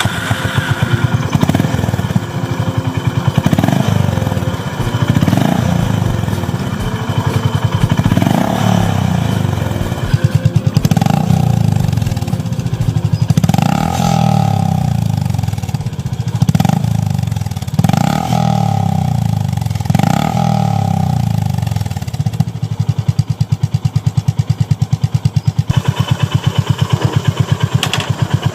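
Honda GB350's air-cooled single-cylinder engine revved in a series of short throttle blips, each rising and falling back, then settling into a steady, evenly pulsing idle for the last several seconds.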